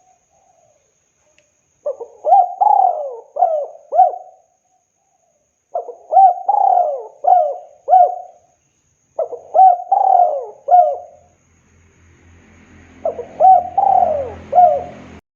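Spotted dove (tekukur) cooing: four phrases of several short coo notes each, a few seconds apart. A low hum and hiss rises under the last phrase, and the sound cuts off suddenly near the end.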